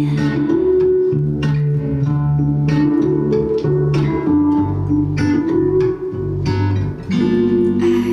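Live indie band music, an instrumental passage with no singing: strummed guitar chords over a bass line, with drum hits marking the beat.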